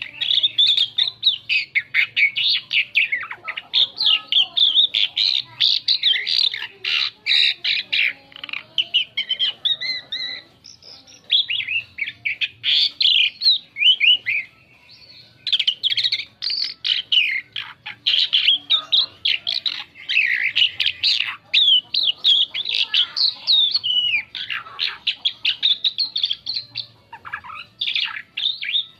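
Asian pied starling singing a long, varied chattering song of rapid squeaky and whistled notes, with brief pauses a little over a third and about halfway through.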